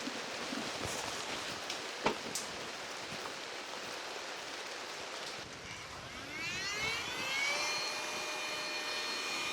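Steady rain, with a few sharp clicks. About six seconds in, a small motor starts up with a rising whine that levels off to a steady hum.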